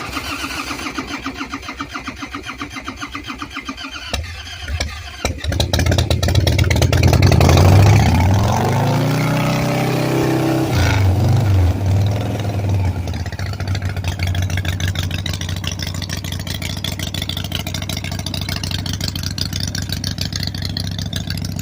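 Cold start of a 1991 Harley-Davidson Fat Boy's 1340 cc Evolution V-twin. The starter cranks for about four seconds and the engine catches about five seconds in. The revs rise and fall, then the engine settles into a steady idle.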